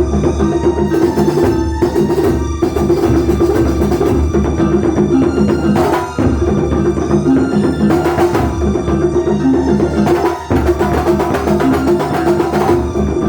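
Live kuntulan ensemble music from Banyuwangi: drums and percussion playing a steady, dense rhythm with pitched tones.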